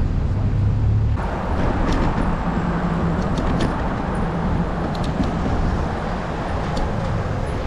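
Steady road traffic noise of a city street, with vehicles running past.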